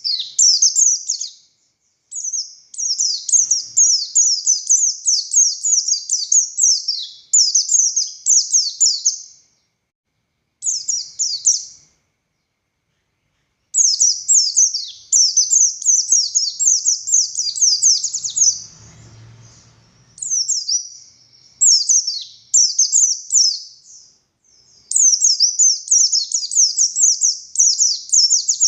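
White-eye (pleci buxtoni) singing a long, fast song of rapid, high-pitched sweeping notes, in runs of several seconds with short pauses between phrases and one longer pause just before the middle.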